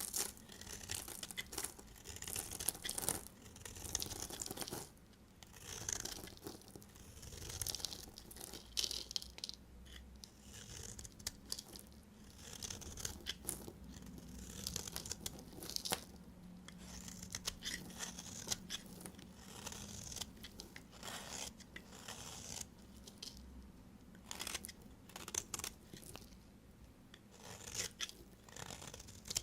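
A knife cutting through bars of soap: a steady run of short, high-pitched scraping strokes with brief pauses between them.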